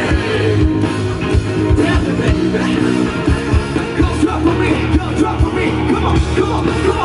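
Live rock band kicking into a song intro: drums, bass and electric guitar come in suddenly and loud at the start, then carry on with a steady driving beat.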